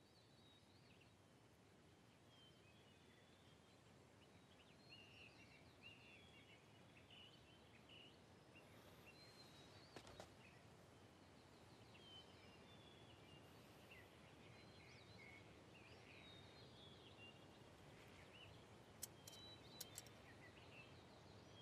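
Near silence: faint outdoor ambience with many short, faint bird chirps, and a few soft clicks about halfway through and near the end.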